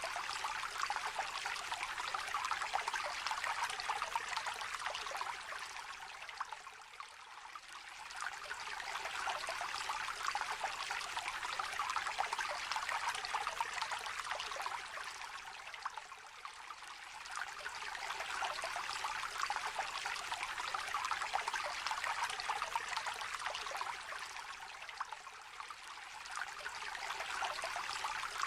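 A small, shallow stream trickling and babbling over stones, a steady splashing rush that eases off briefly about every nine seconds and builds again.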